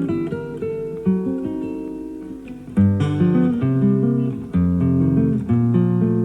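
Classical guitar playing a plucked melody over bass notes, with firm new strokes about three seconds in and again past four seconds. It is a live recording taped off an FM broadcast onto cassette, dull in the top end.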